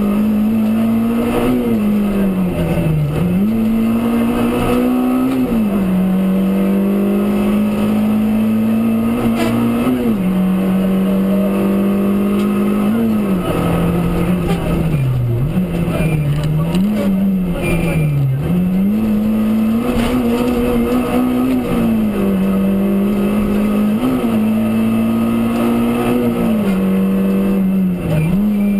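Rally car engine under hard driving. The revs climb and fall back sharply again and again, with dips and several-second stretches held at a steady pitch, as the car is shifted and driven through the stage.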